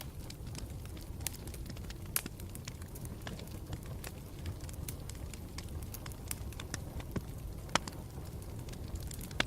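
Campfire burning with a steady low rumble and irregular sharp crackles and pops from the burning wood, the loudest pops about two seconds in and near the end.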